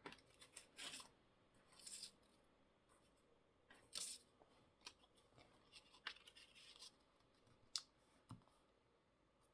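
Faint, scattered rustles and light taps of paper scraps and card being handled and moved on a craft table.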